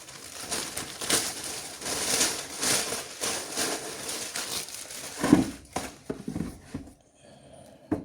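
Shoe-box packaging crinkling and rustling in repeated strokes as it is handled, with a louder thump about five seconds in; the handling dies down near the end.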